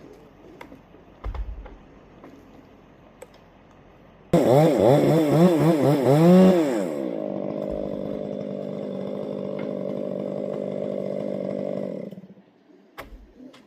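A low thump about a second in. Then a two-stroke chainsaw starts suddenly about four seconds in, revs up and down a few times, and runs steadily for about five seconds before cutting off.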